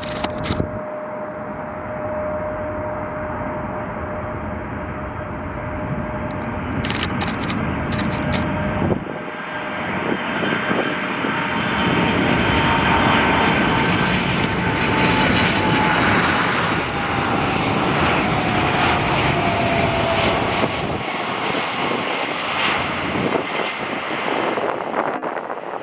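Jet airliner engines running as the aircraft passes, with a steady whine over the rush, then after a cut a louder pass by a Boeing 747-400 freighter whose engine whine falls slowly in pitch as it goes by. Wind buffets the microphone.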